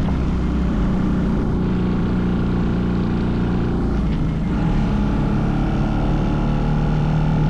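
Mini bike engine running steadily, its pitch shifting slightly about four seconds in.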